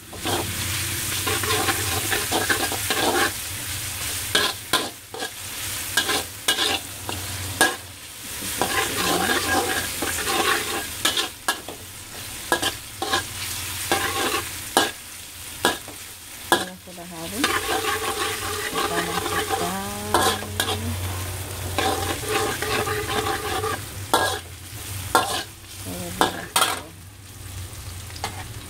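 Sliced shallots and garlic sizzling in hot oil in a wok, with a metal spatula repeatedly scraping and knocking against the pan as they are stirred.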